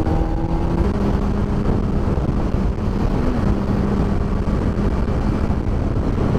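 2007 Honda CBR600RR's inline-four engine cruising at highway speed under heavy wind rush. Its tone steps down about a second in, then holds steady.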